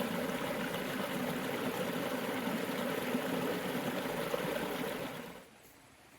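Heavy rain pouring steadily, cutting off abruptly about five and a half seconds in.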